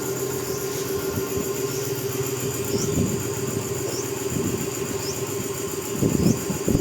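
A steady mechanical hum with a low drone, with irregular knocks and clatter that are loudest near the end.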